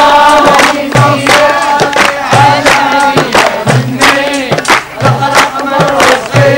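A group of voices singing together in unison to a regular percussive beat.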